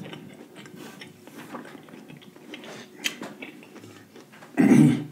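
Close-miked chewing of fried lobster tail: small crackly clicks and wet mouth sounds, with a sharper click about three seconds in and a louder burst of sound just before the end.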